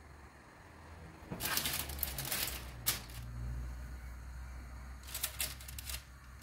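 Kitchen handling noises: two spells of rustling and scraping with a sharp click between them, over a faint low hum.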